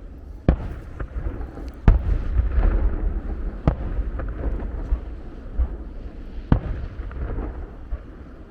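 Aerial firework shells bursting: four sharp bangs at uneven intervals, the loudest about two seconds in, with smaller cracks between them over a continuous low rumble.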